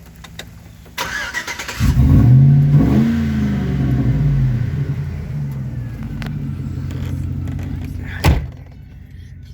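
Truck engine with a Cherry Bomb exhaust being cranked by the starter, catching about two seconds in with a rev that rises and falls, then settling into a steady idle. A single sharp thump near the end.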